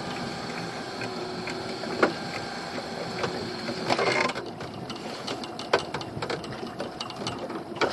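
Pot hauler motor whirring steadily as the crab pot is hauled up, stopping about four seconds in, followed by scattered knocks and clicks.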